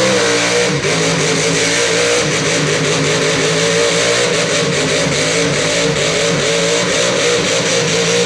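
Mud truck engine held at high revs, its pitch wavering slightly up and down, with a hiss of noise over it.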